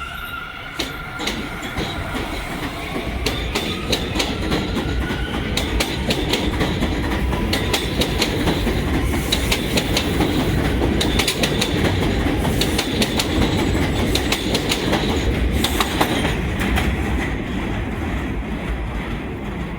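R179 subway train running on its rails, with a rumble that builds over the first few seconds and many sharp clicks of wheels over rail joints. A faint motor whine rises in pitch early on as the train picks up speed.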